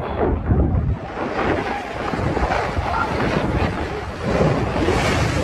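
Strong gusty wind buffeting the microphone over a steady, loud rushing noise, as in a storm.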